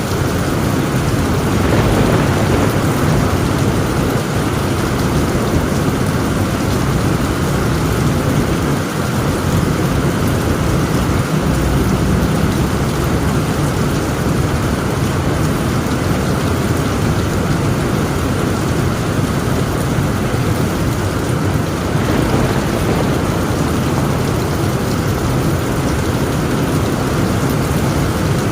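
Heavy rain pounding steadily on a tent roof, with low rumbling thunder underneath that swells slightly about two seconds in and again near the end.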